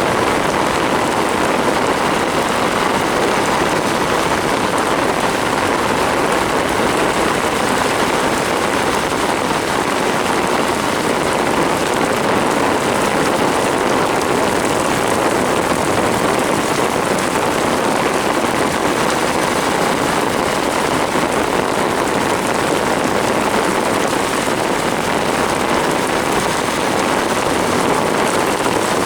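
Torrential rain pouring steadily, a dense, even hiss of downpour with no let-up.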